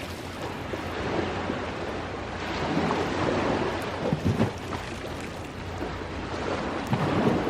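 Sea waves washing on the shore under a crackling wood campfire, with a few sharper pops a little after four seconds in and near the end.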